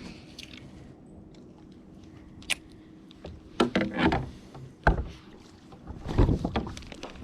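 Scattered short knocks and thumps aboard a fishing kayak over a low steady background, strongest about three and a half to four seconds in, again near five seconds and around six seconds.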